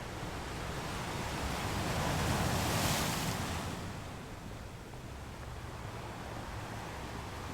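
Sea waves breaking against rocks: a steady rushing wash that swells into one crash about three seconds in, then falls back to a lower steady surge.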